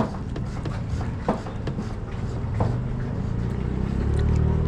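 Truck running down the road: a steady engine and road drone that swells a little near the end, with a few short knocks.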